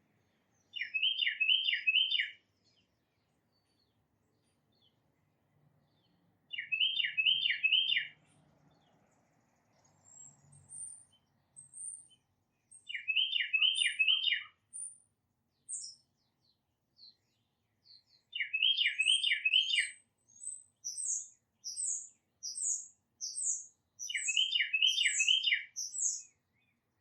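Songbirds singing. One bird repeats a phrase of four or five down-slurred whistled notes about every six seconds, while thin high calls come in between, turning into a quicker series of high notes in the second half.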